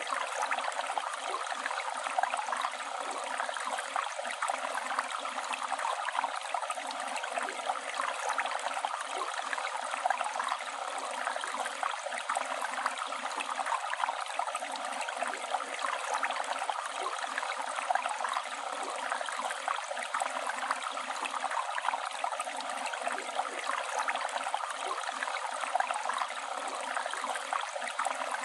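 Flowing river water rushing and babbling steadily, a constant splashy hiss with small gurgles throughout.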